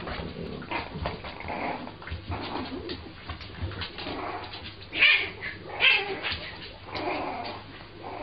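A puppy yapping and whining in short, irregular bursts, with two louder yaps about five and six seconds in.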